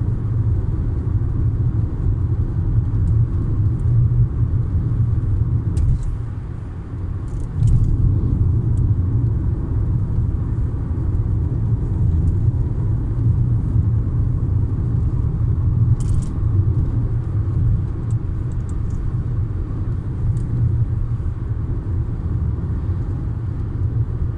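Road noise inside a moving car's cabin: a steady low rumble of tyres and engine, with a brief easing about seven seconds in and a few faint clicks.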